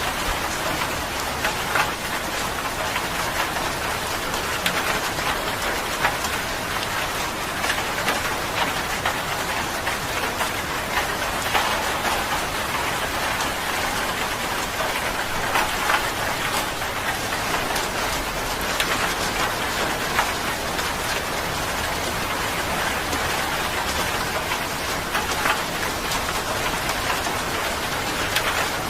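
Steady rain falling, a constant hiss with many individual drops pattering and ticking on a surface.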